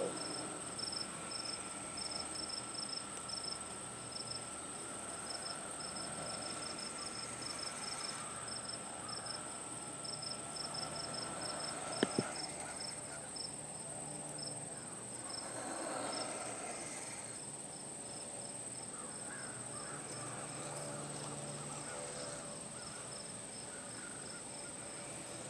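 Crickets chirping in a fast, steady rhythm, with faint scraping strokes of a knife blade drawn across a scythe stone and one sharp click about halfway through.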